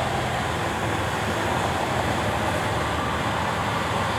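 A boom lift's engine running steadily with a low, even hum while the boom basket is eased into position.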